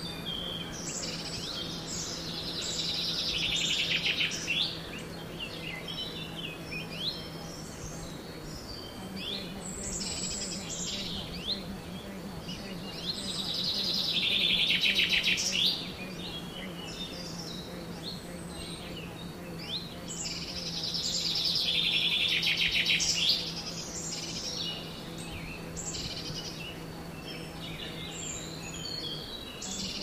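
Woodland birdsong: scattered chirps and three louder song phrases about eight seconds apart. Each phrase is a fast trill that builds for a few seconds and then stops suddenly. A faint steady low hum runs underneath.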